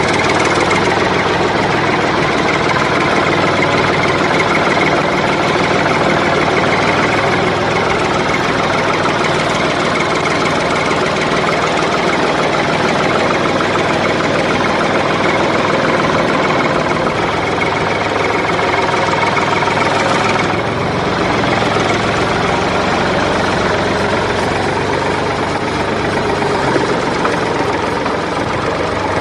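A vehicle engine running steadily, with a slight change in tone about two-thirds of the way through.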